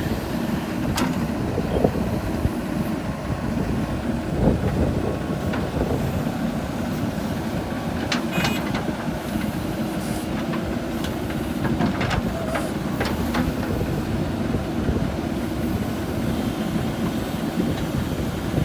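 Diesel engine of a heavy machine working, a steady rumble with a few scattered metallic clanks and knocks.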